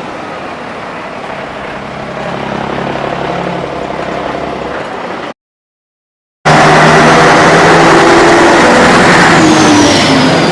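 Truck engines running as trucks drive by, in two stretches split by about a second of silence. The second stretch is louder and ends with a high tone falling in pitch.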